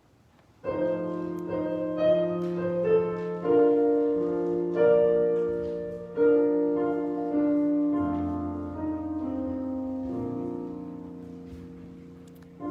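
Piano playing slow, sustained hymn chords, starting just under a second in after a near-silent pause and dying away toward the end.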